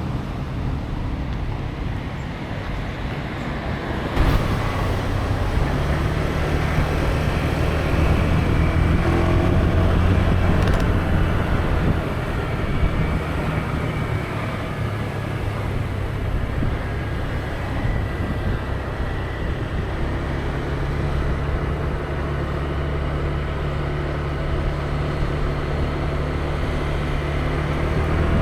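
Street traffic with a motor vehicle's engine running close by, a steady low hum that grows louder about four seconds in.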